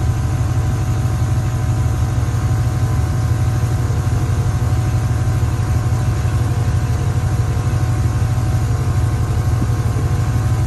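A truck's V8 engine running steadily with a low, even rumble, firing on all eight cylinders after new plugs and wires.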